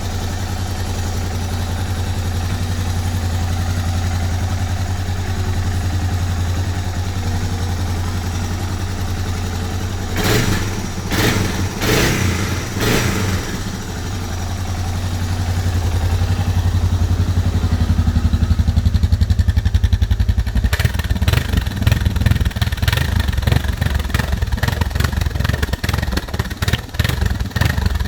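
Suzuki DR650's single-cylinder four-stroke engine idling steadily, with a few short louder bursts about ten seconds in. From about halfway it runs faster and louder, with a choppy, uneven beat.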